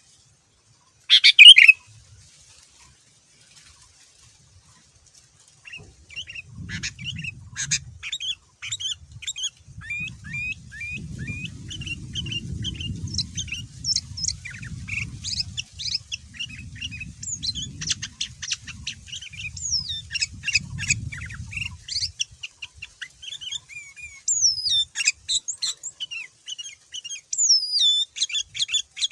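Sooty-headed bulbul (kutilang) singing: one loud harsh note about a second in, a few seconds of quiet, then a long run of rapid chirps and short whistled slides. A low rumble lies under the song for much of the middle.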